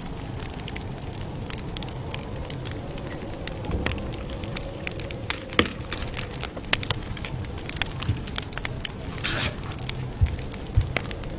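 Campfire crackling: irregular sharp pops and snaps over a low rumble of burning. A brief hiss comes about nine seconds in.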